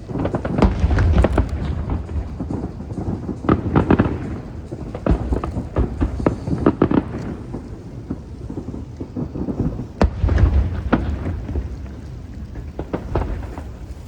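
Fireworks display: aerial shells bursting one after another, deep booms mixed with sharp cracks and crackle, heaviest about a second in and again around ten seconds in.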